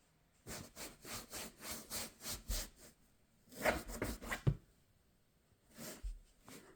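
A run of short rubbing, scratching strokes, about three a second, then a quicker cluster a second later and one more near the end.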